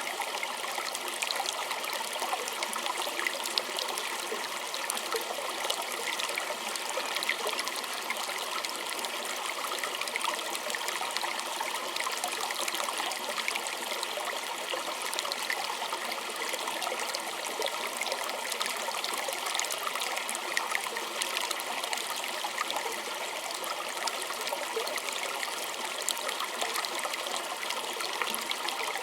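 A small stream trickling steadily, with many small splashes and drips over an even rush of running water.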